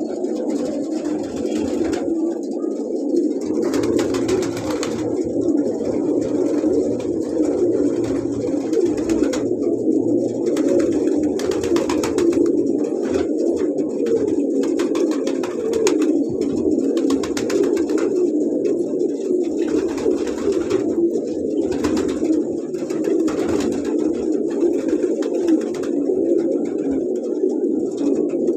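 A flock of homing pigeons cooing, many coos overlapping into a continuous low burbling.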